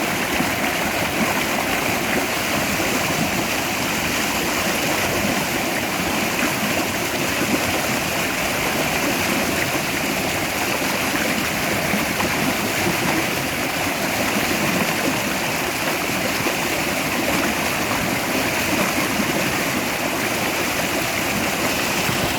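Mountain stream rushing over rocks, a steady, unbroken water noise.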